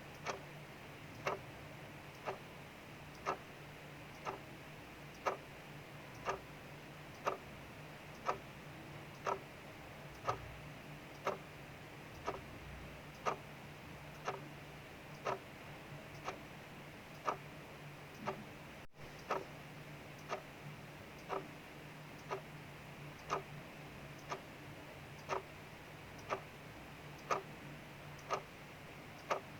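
Mechanical clock ticking steadily, about once a second, over a steady soft hiss of rain falling outside.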